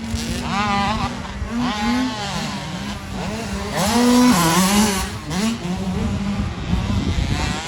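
Motocross bike engines revving hard, their pitch climbing and dropping again and again as they race round the track. They are loudest about four seconds in.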